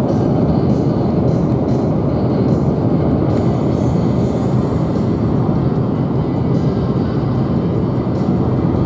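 Steady rumble and road noise of a moving vehicle, an even noise without any distinct tone.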